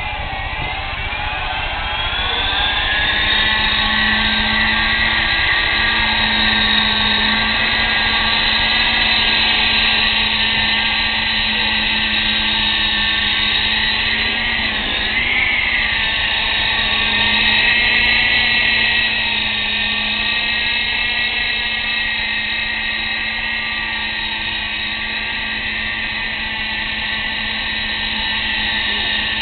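A Hirobo XRB Lama electric coaxial RC helicopter's motors and rotors whine higher as it spins up over the first few seconds, then hold a steady, high whine. About halfway through the pitch wobbles briefly.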